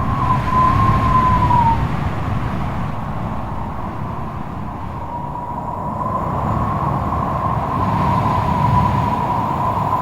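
Strong wind howling: a whistling tone that wavers near one pitch, dips and breaks off about two seconds in, then returns and swells, over a steady low rumble of gusts.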